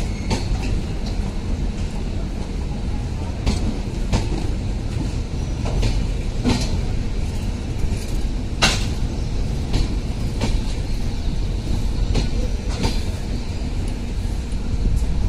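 Indian Railways passenger coaches rolling slowly past a platform: a steady low rumble with irregular sharp clicks and knocks of the wheels over rail joints, the sharpest one a little past halfway.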